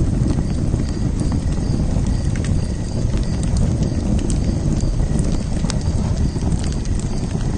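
Fire crackling: a steady low rumble of burning with frequent irregular sharp pops and snaps.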